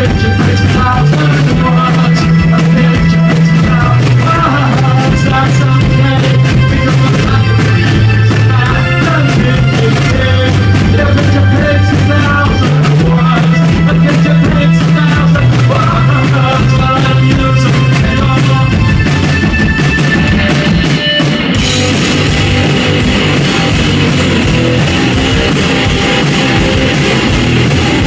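Rock music with electric guitar, a bass line stepping between notes and drums. About 21 seconds in it breaks into a brighter, denser section of strummed electric guitar.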